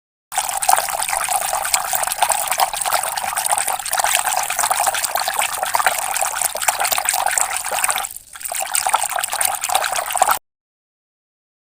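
Water running in a steady hissing stream, dipping briefly about eight seconds in before cutting off suddenly near the end.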